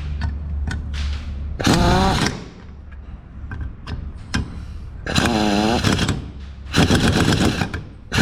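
Impact gun driving in the stator bolts: two short bursts of motor whine that bend in pitch, about two and five seconds in, then a longer run of rapid hammering near the end as a bolt is run down tight.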